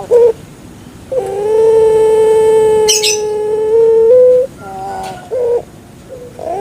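Puter pelung (Barbary dove) cooing: a short note, then one long, held coo of about three seconds, followed by a few shorter notes near the end.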